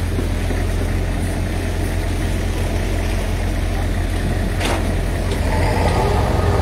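Heavy diesel engine of construction machinery running steadily with a deep hum, with a single sharp knock a little over two-thirds of the way through.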